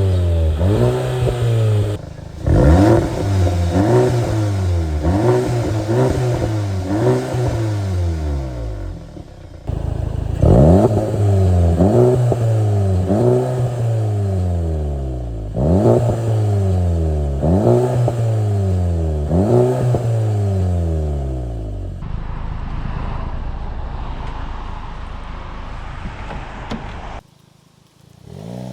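Volkswagen Golf GTI Mk7.5's turbocharged 2.0-litre four-cylinder revved through its exhaust, over and over: each rev climbs quickly and falls back, roughly one every second and a half. In the last few seconds it settles to a steady rumble, dips briefly, and a new rev starts rising near the end.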